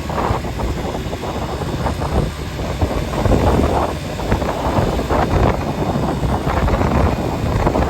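Loud rushing road and wind noise from a moving vehicle, with gusts buffeting the microphone.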